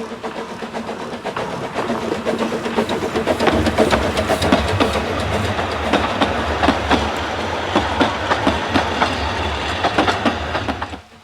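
A train running on rails, with a clickety-clack of wheels over the track. It builds up over the first few seconds, runs steadily, then cuts off suddenly near the end.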